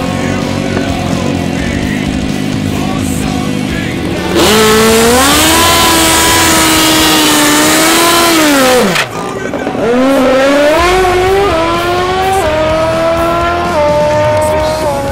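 Drag-racing sport motorcycle engine held at high revs under a loud hiss from about four seconds in, typical of a burnout. The revs drop near nine seconds, then the engine pulls away with its pitch climbing and dropping back in steps as it shifts up through the gears.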